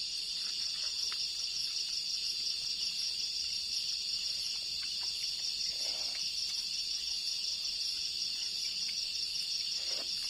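Steady high-pitched chorus of insects, a dense unbroken buzzing trill with a fine pulsing texture, and a few faint clicks over it.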